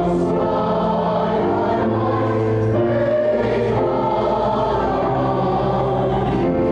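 Congregation singing a hymn with accompaniment, in held chords that change about once a second.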